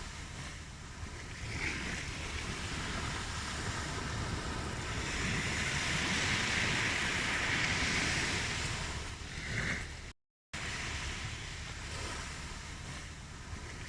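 Ocean waves washing on a shore, a steady surf that swells in the middle and falls back. A brief gap of silence about ten seconds in.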